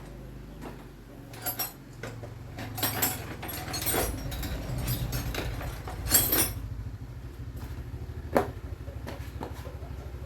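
Electric fan running with a low, steady hum and a fast, even flutter, growing stronger about four seconds in. Several clicks and clatters of handling sound over it, the loudest about six seconds in.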